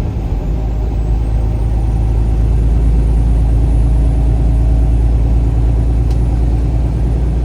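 A vehicle driving at road speed: a steady low rumble of engine and road noise that grows a little louder over the first few seconds, then holds.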